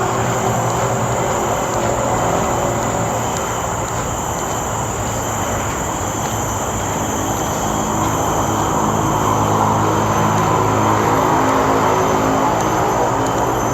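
Steady rush of road traffic from a nearby main road, vehicles passing continuously with a low engine hum, swelling a little near the end.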